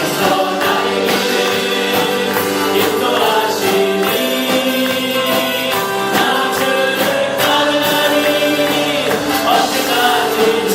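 Christian worship music: a group singing a hymn-like song over instrumental accompaniment, with steady percussion.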